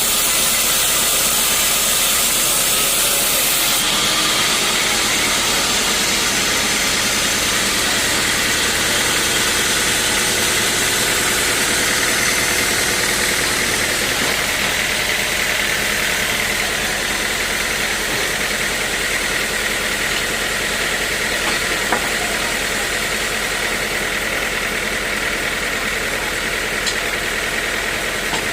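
Sawmill saw machinery running steadily: a constant loud, noisy hiss over a low motor hum. The brightest, highest part of the hiss drops away about four seconds in.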